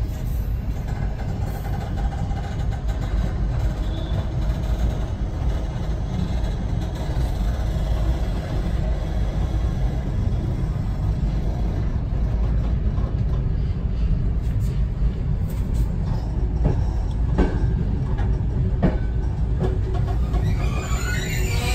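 Passenger train coach rolling slowly through a station, heard from inside: a steady low rumble with a few sharp clicks in the last few seconds.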